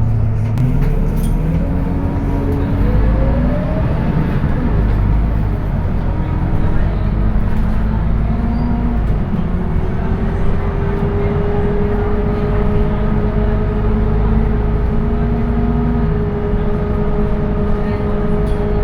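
Scania K230UB bus's diesel engine and ZF automatic gearbox under way, with a heavy low rumble. The pitch climbs during the first few seconds as the bus accelerates, then settles into a steady whine from about halfway through.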